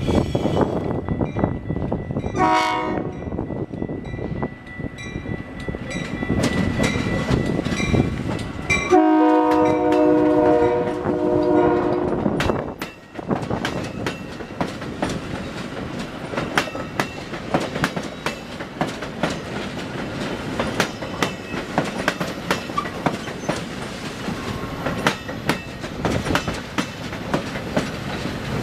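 A train passing close by. Its horn sounds a short blast about two seconds in and a longer blast of about three seconds from nine seconds in, and after that the wheels clack steadily over the rail joints.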